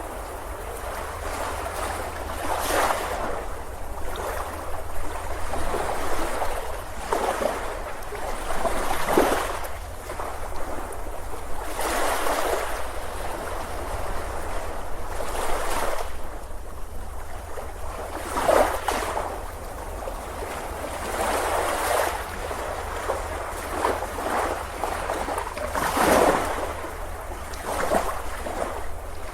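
Ocean surf breaking on a beach, the wash swelling and falling away every few seconds over a steady low rumble.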